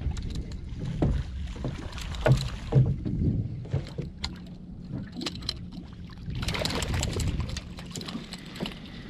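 Water-borne small-boat sounds: scattered knocks and clunks over a low rumble, with a brief burst of rushing noise about six and a half seconds in.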